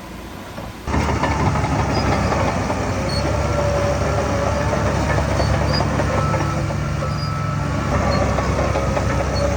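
Heavy diesel earthmoving machinery running loudly, with a rattling clatter and thin squeaks over the engine. It gets suddenly much louder about a second in.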